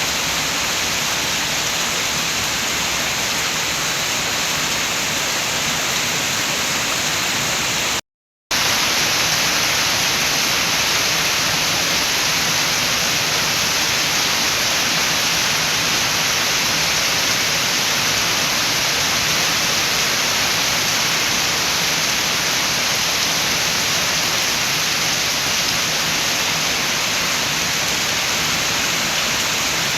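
Steady rain with wind, a dense even hiss. It cuts out to silence for about half a second around eight seconds in, then carries on as before.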